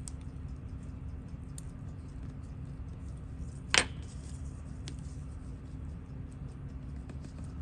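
Small metal clicks and taps of watchmaker's tools working on a watch crown, with one sharp click about four seconds in, over a steady low hum.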